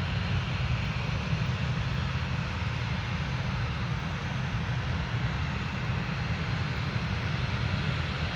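Aircraft engine noise: a steady low rumble with a broad hiss that holds level throughout.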